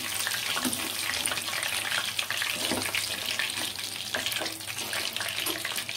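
Masala-marinated chicken leg pieces frying in hot oil in a kadai: a steady crackling sizzle, with a slotted metal spoon turning and lifting the pieces, which are cooked through on both sides.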